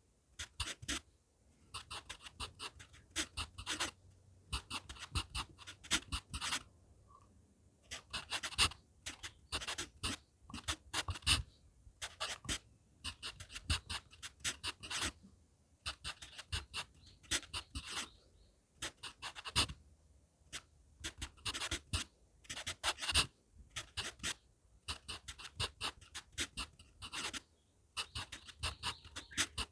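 HB pencil writing on manuscript paper, close to the microphone: quick runs of short scratching strokes in groups, with brief pauses between them.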